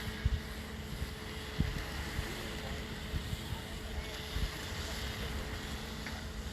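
Steady machine hum under a haze of noise, with gusts of wind buffeting the microphone.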